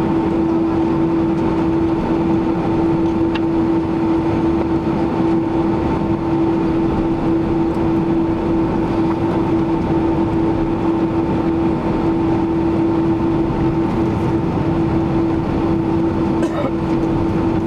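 Boeing 767-300ER cabin noise from a window seat by the left wing: the jet engines and airflow make a steady rumble, with a constant low hum and a fainter higher hum held throughout.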